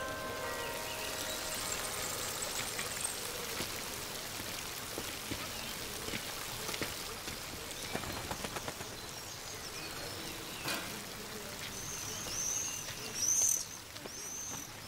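Steady background hiss with a few light clicks, and a bird chirping several times in short, high, arching notes near the end.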